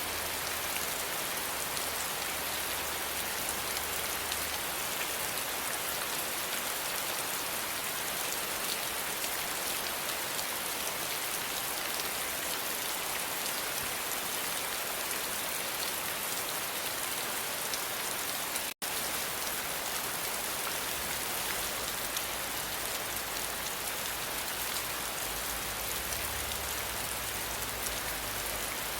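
Steady rain falling and pattering on a surface, an even hiss of dense drops. The sound cuts out for an instant about two-thirds of the way through.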